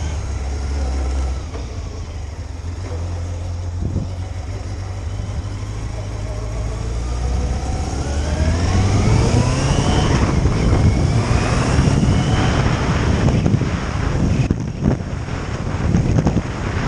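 Motorcycle engine running steadily, then accelerating about seven seconds in: the pitch rises, drops back at a gear change about ten seconds in and rises again. Wind noise throughout.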